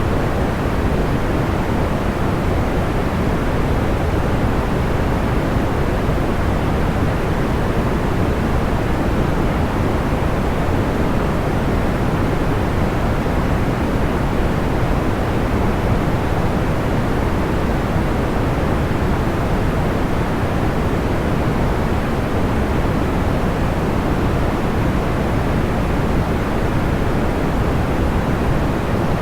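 Steady, even rushing noise weighted toward the low end, like a soft pink or brown noise sleep track, with no crackles or pops.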